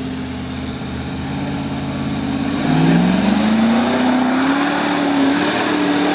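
Range Rover Classic's engine running steadily at low revs. About two and a half seconds in it revs up and gets louder, pulling under load as the vehicle climbs a bank.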